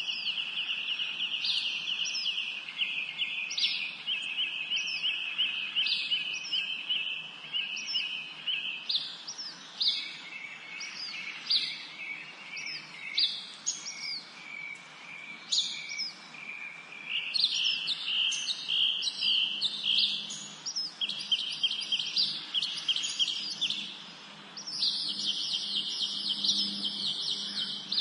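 Songbirds singing in a spring forest: fast chattering trills repeated in runs of a few seconds, with short sharp call notes over them and a brief lull a little before the end.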